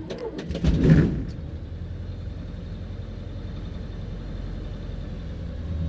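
Light aircraft's piston engine starting: it fires and catches loudly about a second in, then settles into a steady low idle.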